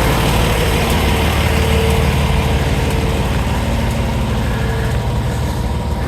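Fire ladder truck's diesel engine idling steadily.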